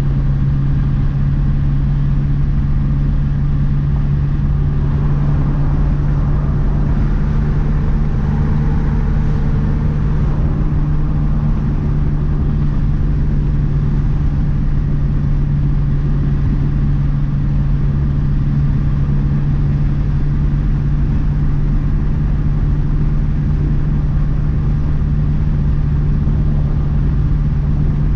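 A 2012 Mazdaspeed 3's turbocharged 2.3-litre four-cylinder, fitted with a big turbo, running at a steady, unchanging pitch while the car cruises, with low road rumble underneath.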